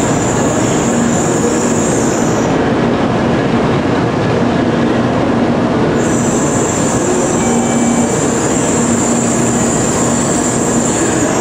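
JR Central N700A Shinkansen rolling slowly into a station platform, its cars passing with a steady rumble and low hum. A high squeal sounds for the first two seconds or so, stops, and comes back about six seconds in.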